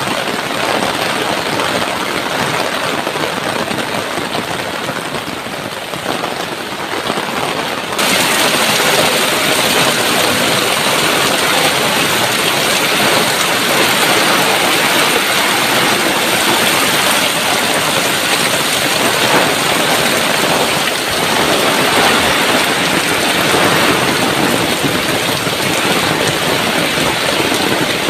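Heavy tropical downpour, a dense steady hiss of rain; about eight seconds in it suddenly gets louder and brighter, then carries on steady.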